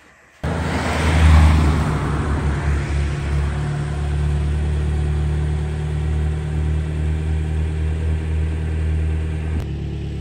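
Toyota sedan's engine idling. The sound comes in abruptly about half a second in, is louder and rougher for the first couple of seconds, then settles into a steady low idle.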